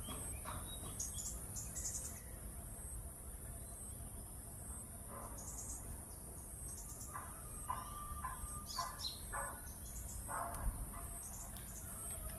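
A steady high-pitched trill of insects, with short bird chirps scattered through it over a low background rumble.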